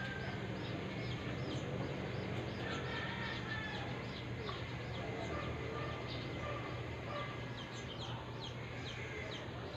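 Small birds chirping, with short high chirps coming several times a second, over a steady low hum.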